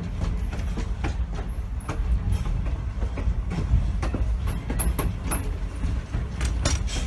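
Train cars rolling past, wheels knocking over rail joints above a steady low rumble, with a few brief high-pitched wheel squeaks.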